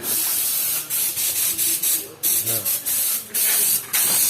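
Repeated bursts of loud, high-pitched hissing, like air or spray jetting from a nozzle, each lasting about half a second to a second and cutting on and off sharply.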